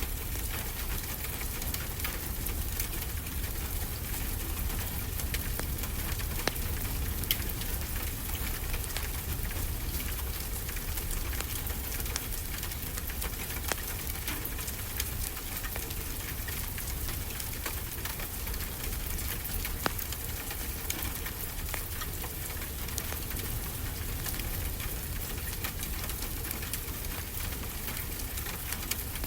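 Steady rain hissing, with scattered crackles and pops from a wood fire and a low rumble underneath.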